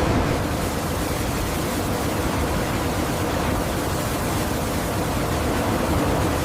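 A steady rushing noise with no distinct tones or rhythm.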